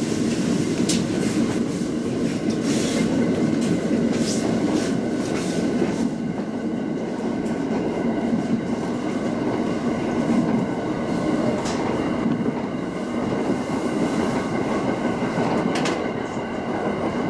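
Local passenger train running along the line, heard from inside: a steady rumble of wheels on rail, with a handful of sharp clicks and a faint steady hum above it.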